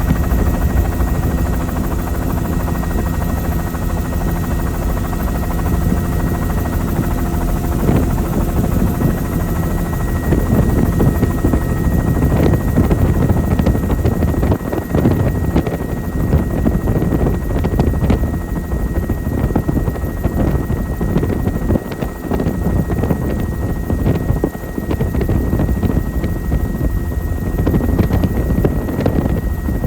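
Helicopter in flight heard from aboard: a steady drone of rotor and engine. After about eight seconds it becomes rougher, with gusting wind noise over the drone.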